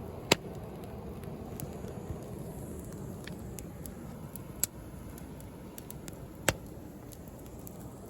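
Wood bonfire crackling, with many small ticks and three sharp pops, over the steady low rush of sea waves.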